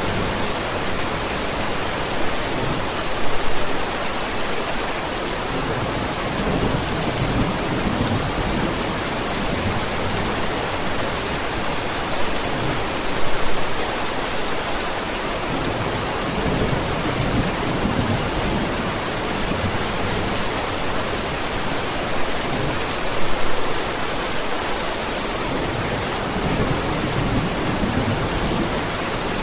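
Steady heavy rain with low rolling thunder rumbles; the loudest swells come about every ten seconds, three times.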